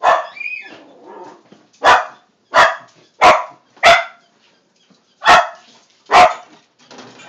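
Dog barking repeatedly, about seven sharp barks spaced irregularly across several seconds.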